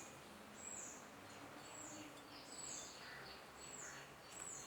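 A bird calling faintly and over and over: a short, high call falling in pitch, about once a second, over a low background hiss.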